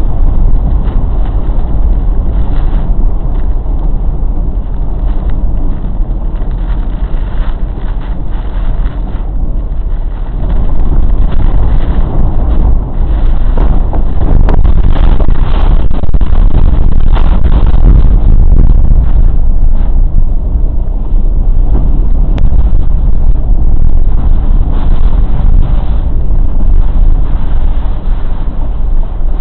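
Typhoon winds blasting across the microphone as a loud, continuous low rumble. It grows louder about ten seconds in and stays strong, easing briefly only a couple of times.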